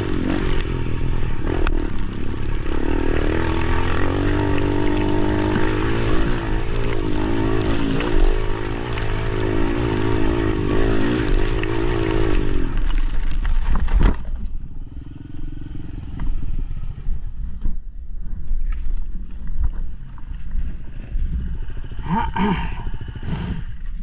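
Motorcycle engine running with its pitch rising and falling as the throttle works, then cutting off abruptly about 14 s in. Quieter, irregular noises follow.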